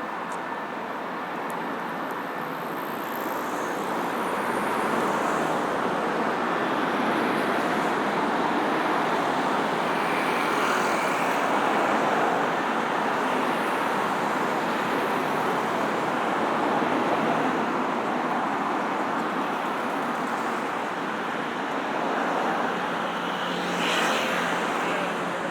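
Busy road traffic passing close by, a steady wash of car and engine noise that swells over the first few seconds and then holds, with a short sharp knock near the end.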